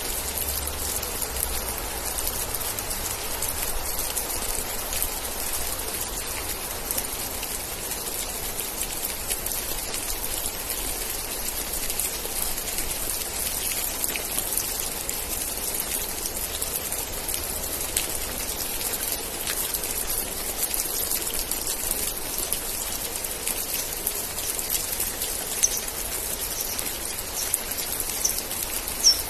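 Steady rain, with many individual drops ticking close by over the even hiss. A few short, high chirps sound near the end.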